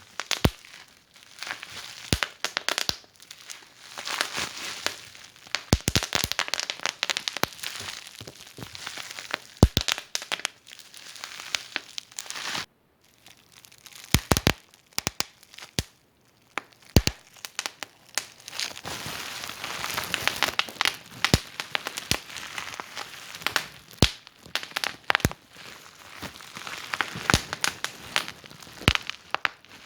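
Wood fire burning in a fireplace, crackling with irregular snaps and pops over a soft hiss. The sound drops out briefly about thirteen seconds in, then the crackling resumes.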